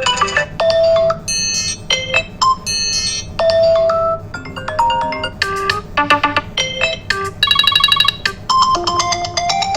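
iPhone 11 Pro loudspeaker playing a rapid run of short ringtone and alert-tone previews, each melody cut off after a fraction of a second to a second by the next, with a fast trilling tone about halfway through. The loudspeaker is working again after the board repair.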